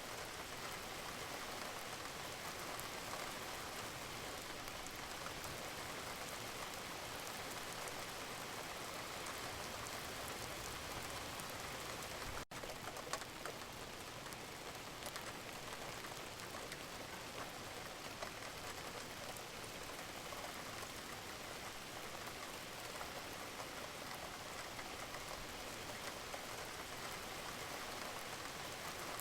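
Steady rain falling, with many small drops pattering on a surface. The sound drops out for a split second near the middle.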